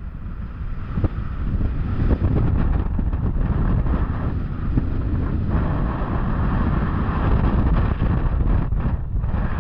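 Wind rushing over the microphone on a moving Intamin roller coaster train, with the low rumble of the train on its track. The noise swells and dips slightly but never stops.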